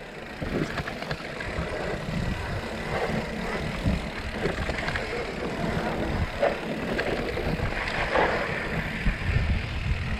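Mountain bike rolling fast over a rough dirt trail: a steady rumble of tyres and wind on the microphone, with a few knocks and rattles from the bike over rocks.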